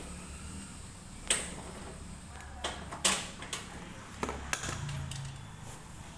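Several sharp clicks and knocks of washing machine parts being handled and fitted, the loudest about three seconds in, over a low steady hum.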